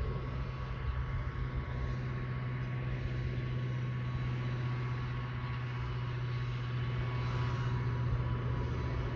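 An engine running steadily with a low, even hum; no bird calls stand out above it.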